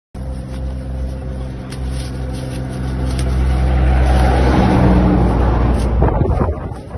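Vehicle engine idling steadily, growing louder midway and then dropping away about six seconds in, with a short crackly rustle as it ends.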